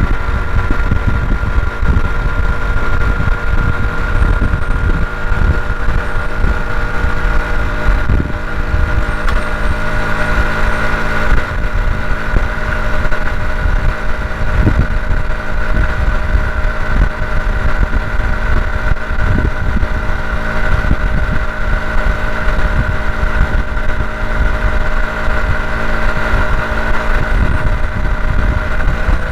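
Honda CT125 Hunter Cub's single-cylinder engine running at a steady cruising speed while riding, with strong wind buffeting the microphone.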